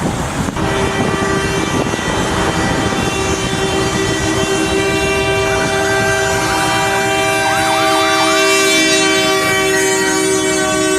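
Several truck air horns sounding together in one long, steady chord, starting about half a second in, with a siren wailing briefly in the middle.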